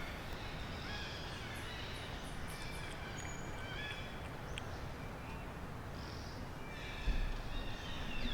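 Forest ambience: a steady background hiss with scattered short, high bird calls and chirps. A low rumble comes in near the end.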